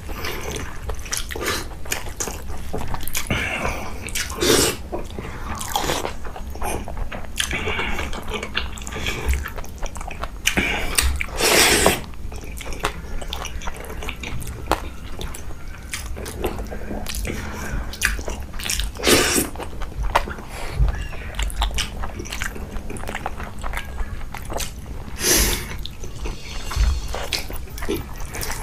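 Close-miked ASMR eating sounds of saucy egg curry and rice eaten by hand: steady chewing and wet mouth smacks, with a few louder smacks and bites at irregular moments.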